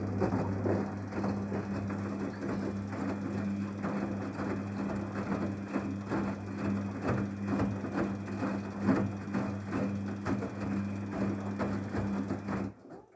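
Daewoo DWD-FT1013 washing machine running an air bubble wash cycle: a steady mechanical hum with a dense, irregular patter of water splashes and clicks. It cuts off suddenly shortly before the end.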